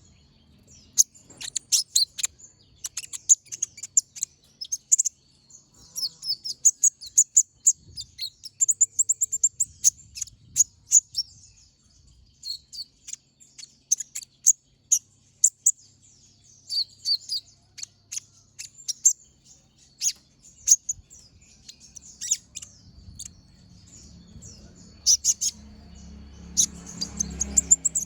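Kolibri ninja (Van Hasselt's sunbird) singing: rapid runs of sharp, high chirps and short trills in quick bursts. A faint steady high tone sits underneath, and a low rumble of background noise rises near the end.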